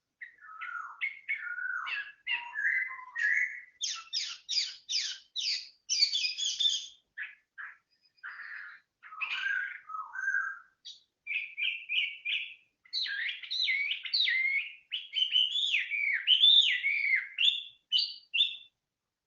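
A songbird singing a long, varied song of quick notes and phrases with brief pauses. About four seconds in there is a quick run of repeated notes.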